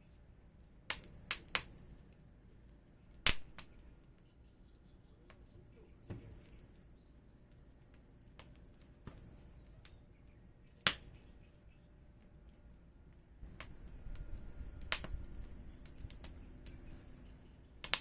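Wood fire crackling, with sharp, irregular pops from the burning firewood, several in quick succession about a second in and single ones spaced a few seconds apart after that. Near the end a low rumble from the fire grows under the pops.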